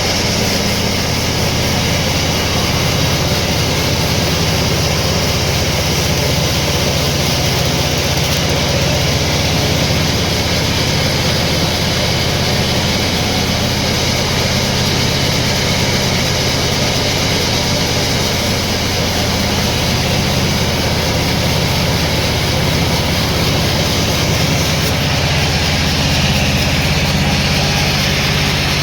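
Sawmill machinery running steadily: a loud, continuous mechanical drone with a low hum under a broad hiss.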